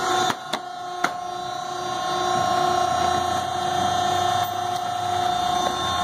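Cardboard baler's hydraulic power unit running with a steady hum, with a few sharp clicks and a short drop in loudness in the first second and a low rumble rising in the middle.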